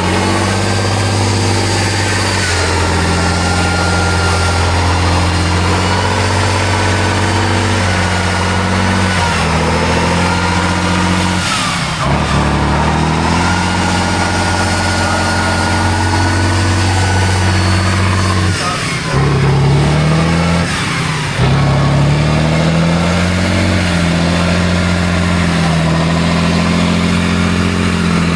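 Heavy diesel truck engine running under load at fairly steady revs. The revs dip briefly about twelve seconds in, drop again about nineteen seconds in, then rise and hold.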